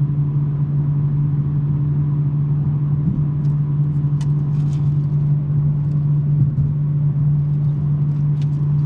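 BMW M3 G80's twin-turbo inline-six exhaust, fitted with a non-resonated J-pipe, droning steadily at an even cruising speed with no revving or shifting.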